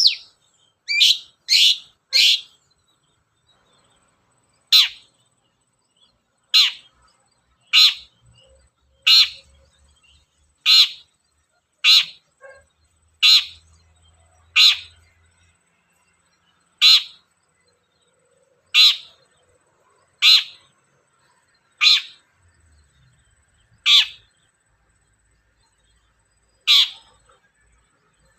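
Long-tailed shrike (cendet) calling: a series of short, sharp single notes repeated about every one and a half to two seconds, with a few longer gaps.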